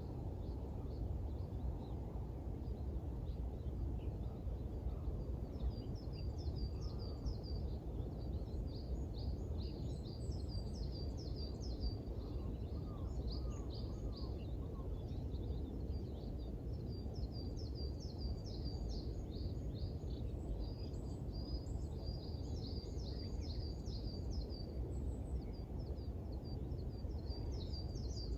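Small songbirds twittering at dawn in repeated runs of quick, high chirps, over a steady low rumble of outdoor background noise.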